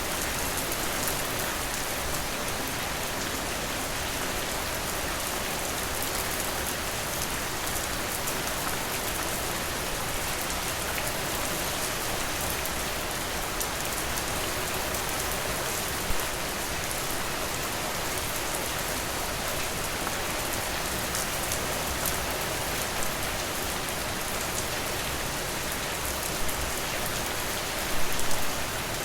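Steady rain falling, with many fine drops tapping close by. A few brief louder drips stand out, one about halfway through and a small cluster near the end.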